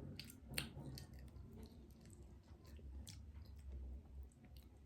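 Faint chewing of crab, with scattered small clicks and crunches.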